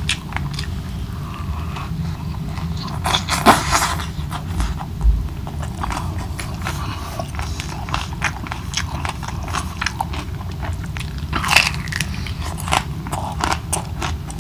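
A person chewing and biting a mouthful of adobong kangkong (braised water spinach) with a string of small crunching clicks. There are a few louder bites about three and a half seconds in and again around eleven seconds.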